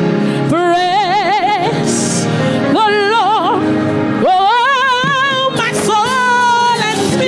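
Gospel praise singing: a solo female voice holding long notes with wide vibrato over a band's accompaniment, in three sustained phrases.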